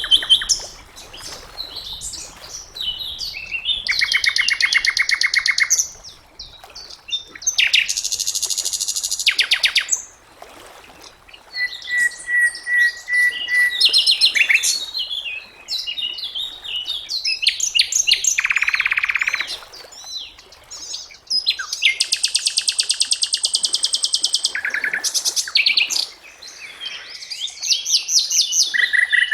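Sikatan londo singing a varied song of fast trills and rattling runs of rapidly repeated notes, mixed with short whistled notes, in phrases of a few seconds with brief pauses between them.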